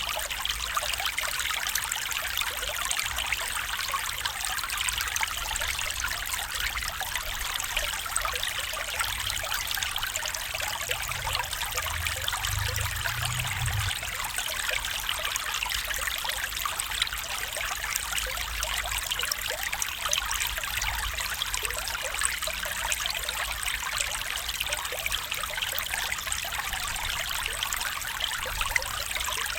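Small stream flowing and trickling over stones, a steady dense burble with a faint low rumble beneath.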